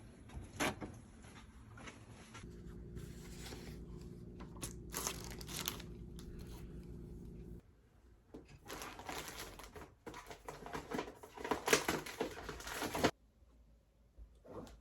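Crinkling and rustling of something being handled, in irregular bouts that get busier in the second half and stop abruptly near the end. A steady low hum runs through the first half.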